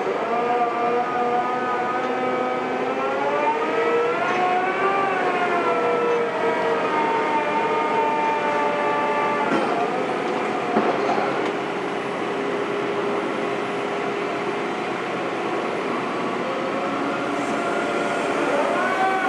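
Heavy construction machine's diesel engine running under changing load, its pitch rising and falling: up a few seconds in, down again about halfway, then rising once more near the end. A couple of faint knocks sound about halfway.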